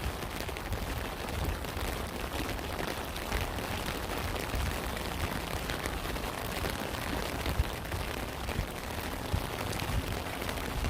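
Steady rain, with many separate drops tapping through an even hiss and a low rumble underneath.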